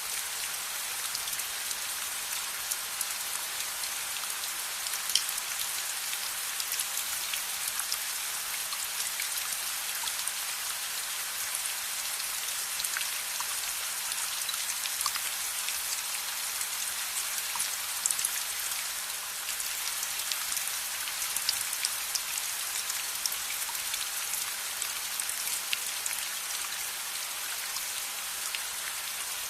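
Steady rain ambience, an even hiss of falling rain dotted with many small sharp drop ticks, a few louder ones about five and eighteen seconds in.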